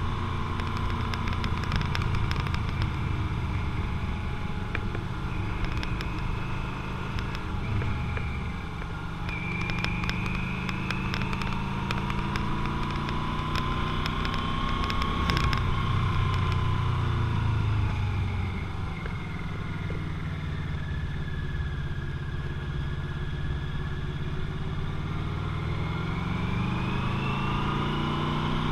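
Motorcycle engine running under way, its pitch falling and rising several times as the revs change, with a few short clicks in the first half.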